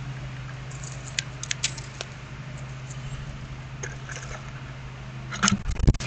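Scattered sharp clicks and taps from small animals moving about a water bowl, with a louder knock and thud near the end, over a steady low hum.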